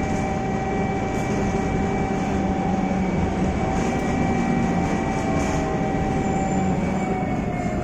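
Inside a TransJakarta Scania K320iA articulated bus underway: a steady diesel drone and road rumble with high, steady drivetrain whines that dip slightly in pitch near the end as the bus eases off.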